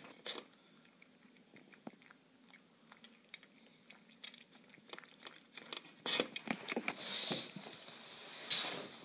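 A cat chewing and crunching its food, eating fast. Faint, sparse little clicks at first, then denser and louder chewing from about six seconds in.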